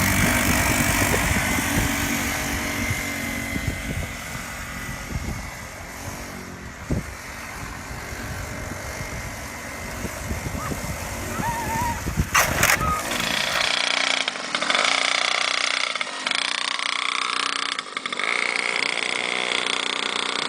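Small dirt bike engines running, with dense rough noise for the first part. After a cut about 14 s in, an engine revs up and down repeatedly.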